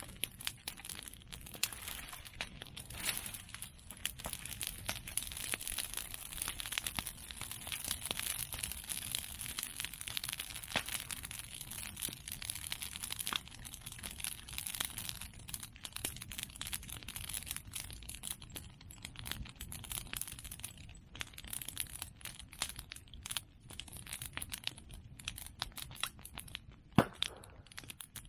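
Open bonfire of cut bamboo and chestnut prunings crackling, a dense, irregular stream of small pops with a steady hiss, and one sharper, louder pop near the end.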